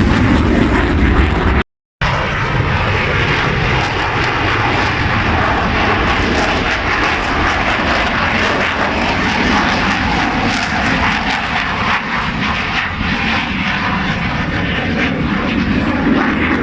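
Airplane engine running loud and steady as an aircraft flies by, with a faint wavering pitch under the noise. The sound cuts out completely for a moment about two seconds in.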